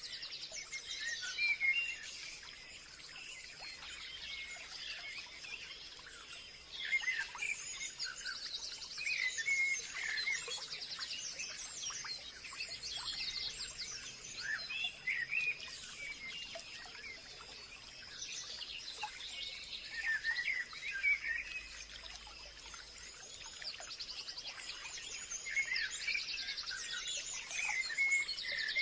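Forest birds chirping and trilling, several calls overlapping in bursts, over a steady high thin tone.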